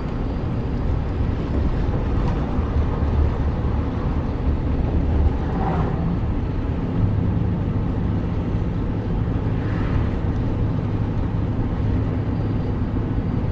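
Steady engine and road rumble heard from inside a moving vehicle. About seven seconds in, the engine note changes to a steadier low hum.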